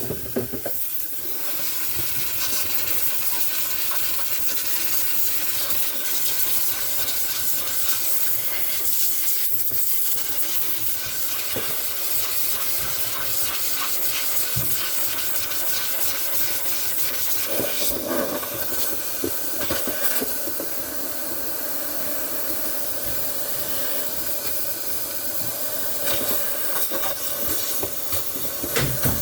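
Steady hiss of a handheld steamer blowing steam into a freezer section to melt the ice out of it, with a few brief surges and small knocks along the way.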